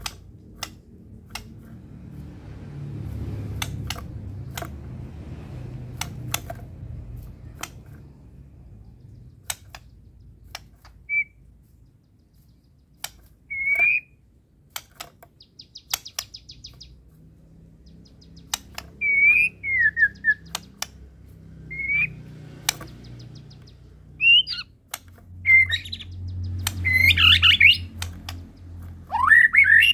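White-rumped shama (murai batu) giving scattered short chirps among many sharp clicks. It builds near the end into a loud run of quick song phrases.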